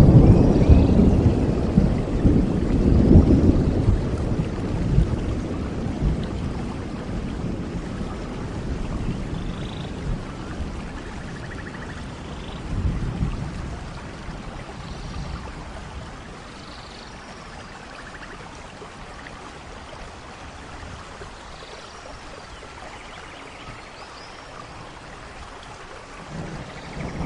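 Rain falling steadily with rolls of thunder: a loud rumble at the start that dies away over several seconds, a shorter one about halfway, and another beginning near the end.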